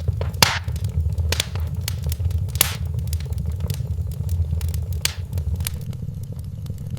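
Wood fire crackling in a fireplace: irregular sharp pops and snaps, a few louder ones, over a steady low rumble. The pops thin out near the end.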